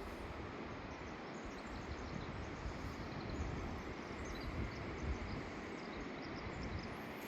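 Steady outdoor rushing noise with wind buffeting the microphone in a low, uneven rumble, and a few faint, short high chirps in the middle.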